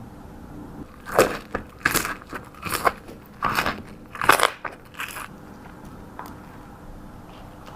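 Close-miked crunching bites and chewing of crispy fried fast food, about six loud crunches at a steady pace that stop a little past halfway.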